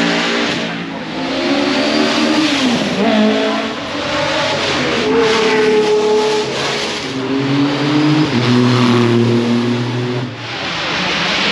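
Racing car engines running hard at speed, the pitch climbing and dropping again and again through gear changes.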